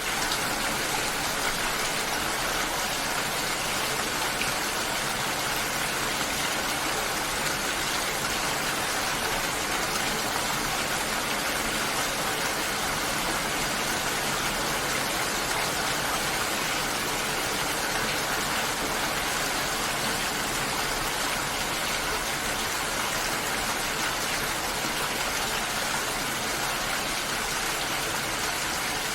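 Steady, even rush of water: a continuous hiss spread across high and low pitches with no distinct drops, breaks or changes.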